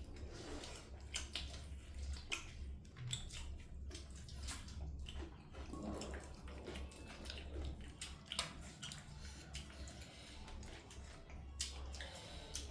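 Close-up eating sounds: irregular wet smacks and clicks of chewing and slurping, over a low steady hum.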